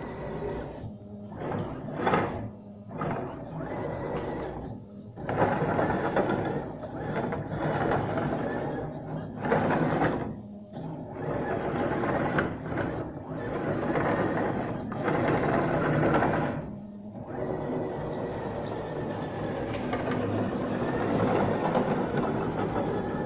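CNC machine running, its motors making strange, shifting noises in stretches broken by several short pauses.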